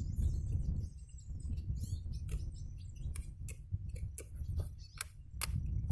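Irregular sharp clicks and light taps, about fifteen of them spread unevenly, over a low steady rumble, with faint bird chirps in the first couple of seconds.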